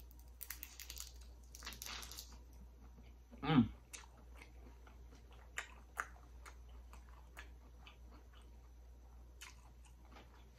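Crunchy bite into a Flamin' Hot Cheetos-crusted fried black tiger prawn dipped in Alfredo sauce: two crisp crunches in the first two seconds, then close-up chewing with small wet mouth clicks. A brief hum from the eater comes about three and a half seconds in.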